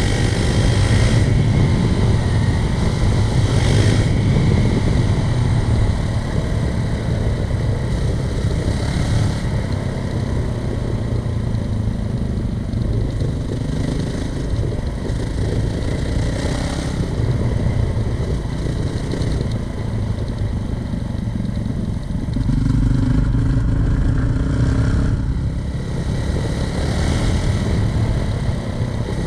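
Honda CRF450RL dual-sport motorcycle's single-cylinder four-stroke engine running under way on a gravel trail, the throttle easing and opening so the note swells and dips, with a louder stretch of throttle about three-quarters of the way through.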